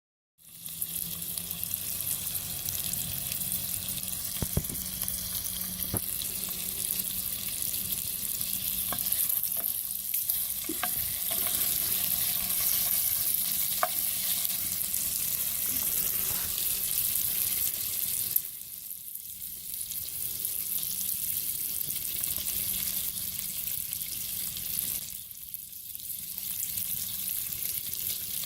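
Food sizzling in a hot pan over a campfire, a steady hiss with occasional sharp pops. The sizzle eases briefly twice, in the second half.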